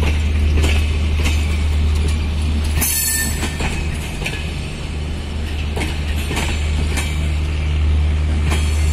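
Passenger coaches of the Padma Express intercity train rolling past as it leaves the station. The wheels click over rail joints roughly once a second over a steady low rumble, and a brief high wheel screech comes about three seconds in.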